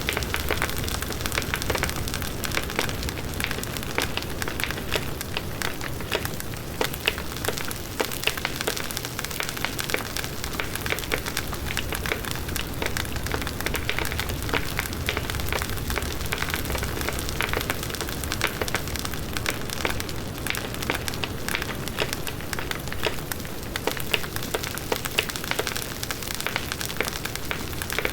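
Bonfire burning: wood crackling and popping in dense, irregular clicks over the steady rush of the flames.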